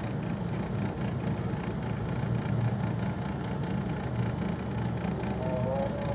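Steady low machine hum with faint clicking over it; a few steady musical tones come in near the end.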